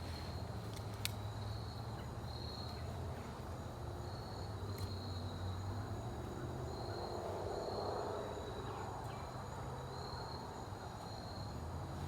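Insects trilling outdoors: a steady high-pitched tone that swells and fades in short pulses, over a low steady hum, with a couple of faint clicks.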